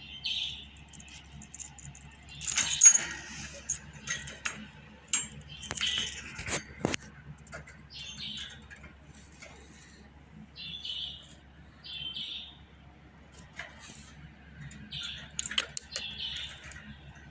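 Pet budgerigar chirping in short, scattered bursts, mixed with sharp clicks and jingly rattles. The loudest rattle comes about three seconds in.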